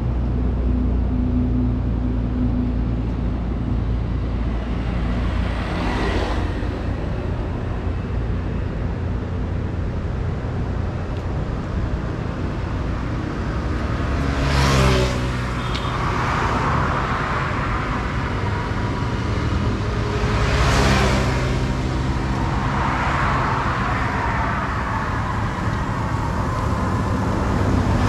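Road traffic: a steady low engine rumble, with vehicles passing close by three times, each swelling and fading with a falling pitch. The loudest pass comes about halfway through.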